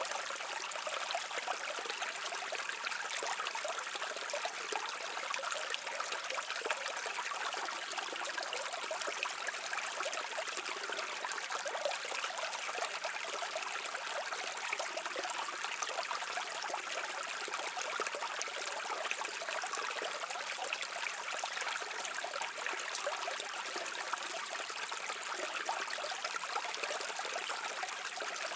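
Shallow stream flowing and burbling steadily over rocks, a constant rushing, trickling noise with no pauses.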